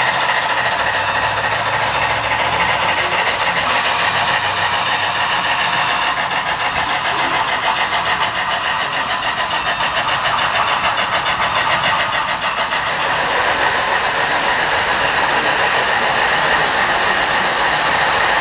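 HO-scale model freight train running on the layout track: a steady rolling rattle of many wheels with fast, even clicking.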